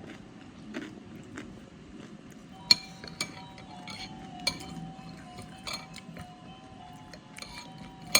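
Cutlery clinking against a bowl about six times while eating, the first clink the loudest, with a soft tune of sustained notes underneath from a few seconds in.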